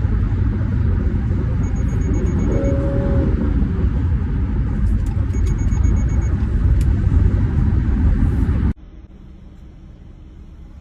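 Loud, steady low rumble of a moving car's road and engine noise, with a brief pitched sound rising and falling about three seconds in. It cuts off suddenly near nine seconds, giving way to quieter, steady traffic noise.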